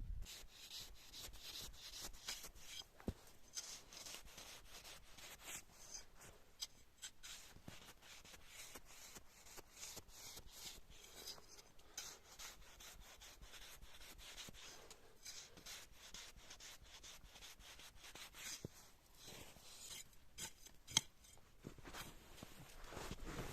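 Close, quiet hand work: a quick, irregular run of short scraping or rasping strokes, with one sharper click about 21 seconds in.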